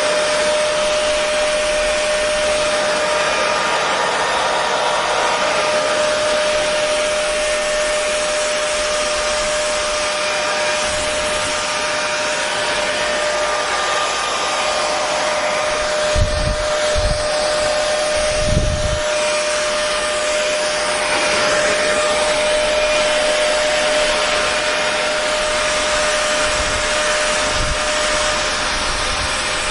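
Hair dryer running steadily: a constant rush of blown air with a steady motor whine. A few low bumps come a little past the middle.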